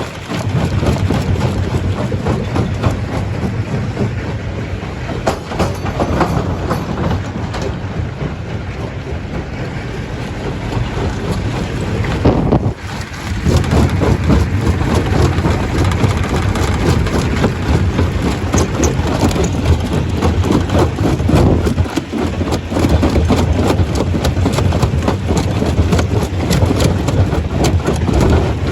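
Stone crusher running and crushing rock: a loud, steady machine noise packed with rapid knocks and clatter, easing off briefly about twelve seconds in before carrying on.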